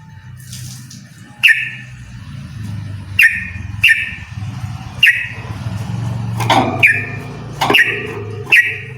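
Yellow-vented bulbul singing in short, loud phrases of bubbly notes, about eight of them with some coming in quick pairs. A low steady hum runs underneath.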